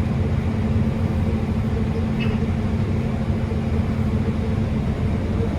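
New Holland combine harvester running steadily while cutting wheat, heard inside the cab as a constant low engine and machine drone.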